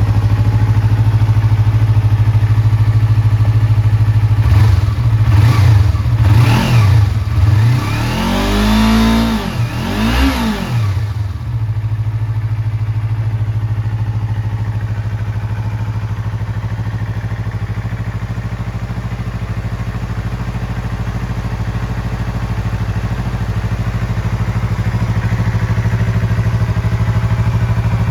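Yamaha YZF-R25's parallel-twin engine idling through a PRUNUS slip-on muffler, blipped several times in quick succession about five seconds in, each rev rising and falling, before it settles back to a steady idle.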